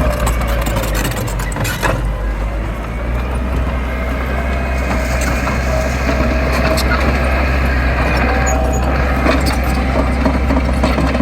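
Diesel engine of heavy earthmoving machinery running steadily with a deep low rumble, with scattered clanks and people's voices over it.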